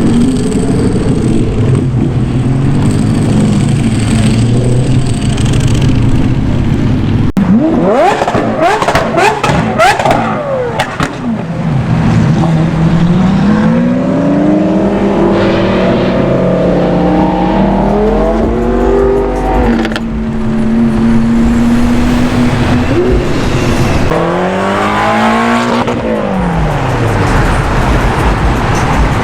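High-performance car engines revving and accelerating as cars drive past. The engine pitch climbs in steps as the cars go up through the gears, with a sudden loud burst of sharp crackles about a third of the way in and a rev that rises and falls near the end.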